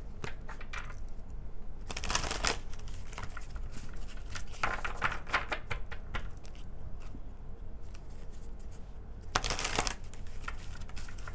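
Tarot cards being shuffled and handled: several short bursts of riffling and flicking, about two seconds in, around five seconds, and near ten seconds, over a low steady hum.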